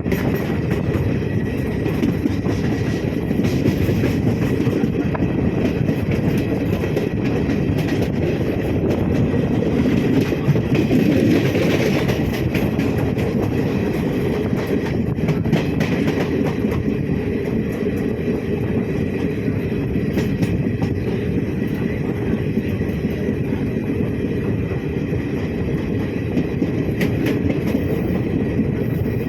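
A train running on the rails: a steady, loud rumble with a constant scatter of clicks and clacks from the wheels on the track.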